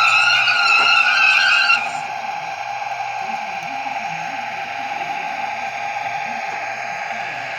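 Model-railway sound decoder playing the running sound of an FS ALe 840 electric railcar: a steady hum. A brighter, higher tone sits over the hum for about the first two seconds, then stops.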